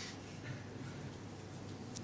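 Quiet room tone: a low steady hum with a faint hiss and a few faint ticks.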